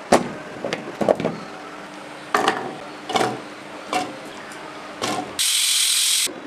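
A series of sharp knocks and clicks, about one a second, like kitchen utensils being handled, then a steady hiss for about a second near the end that starts and stops suddenly.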